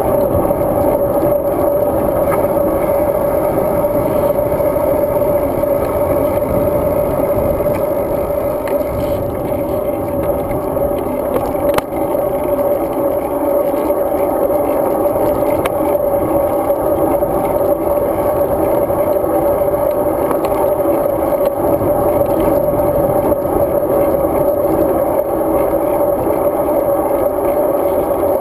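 Steady wind and riding noise of a road bike in motion, with one brief knock about twelve seconds in.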